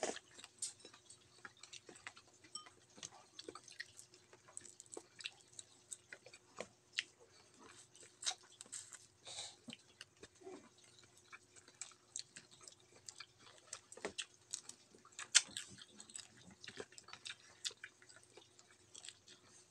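A person chewing and eating cooked whole shrimp close to the microphone: irregular wet clicks and smacks, the sharpest about fifteen seconds in, over a faint steady hum.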